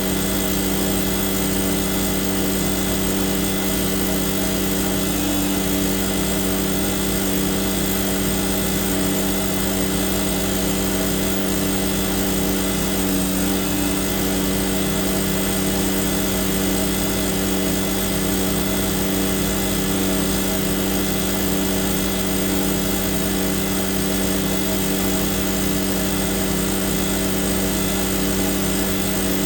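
Tanker truck's vacuum pump and engine running steadily under load, with a constant hum, drawing up thick grease and oil that is hard for the pump to suck.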